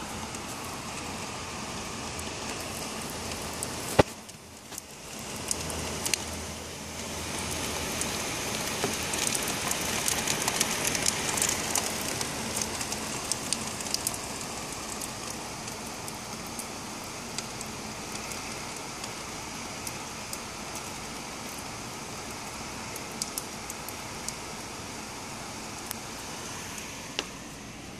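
Rain falling hard, with a dense patter of drops hitting the window glass, heaviest from about eight to fourteen seconds in. There is one sharp knock about four seconds in.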